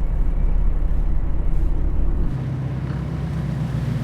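Diesel semi-truck engine idling, a steady low rumble that shifts to a smoother, higher hum about two seconds in.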